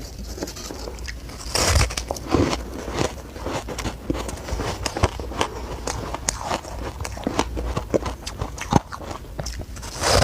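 Close-up eating of shaved ice: bites and chewing, with many sharp crackles and squeaky crunches, and a few louder bites about two seconds in.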